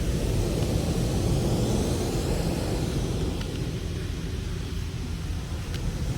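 Automatic car wash at work on a car: a steady rush of water spray over machinery rumble.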